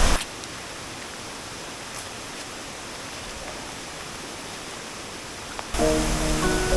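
Steady, even hiss of rushing river water. Background music starts near the end.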